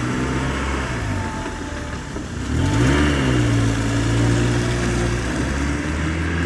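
Excavator engine running, revving up sharply about two and a half seconds in and then holding steady at the higher pitch.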